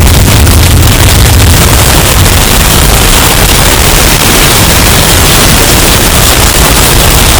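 Hurricane wind sound effect, bass-boosted and overdriven into a steady, very loud, distorted wall of noise with a heavy low rumble.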